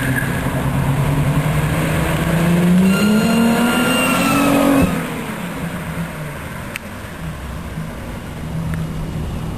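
A turbocharged car accelerating past, its engine note climbing with a thin high whistle rising alongside it. About five seconds in the throttle is cut suddenly, and the engine drops to a lower, quieter, steady note as the car pulls away. The owner calls the turbo dead.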